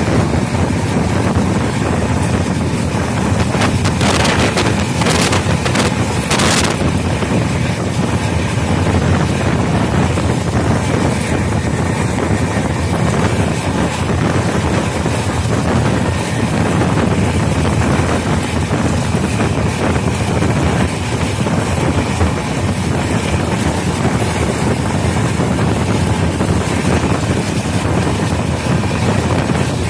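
Passenger train running at speed, heard from an open coach door: steady rumble of the wheels on the track under heavy wind buffeting the microphone. A few brief knocks about four to six seconds in.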